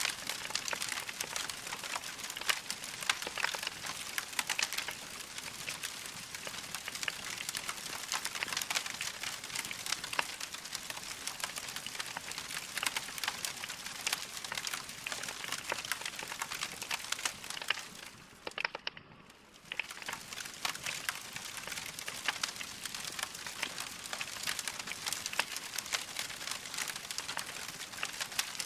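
Wood fire crackling in a fireplace: a dense, continuous stream of small pops and snaps, which drops away briefly about two-thirds of the way through.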